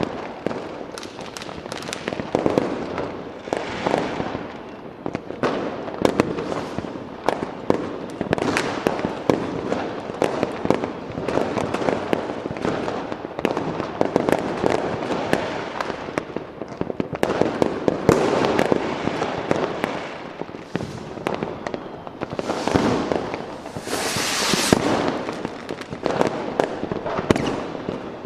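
Fireworks going off continuously: a dense string of bangs and crackling reports, one after another. Near the end comes a brighter hissing burst.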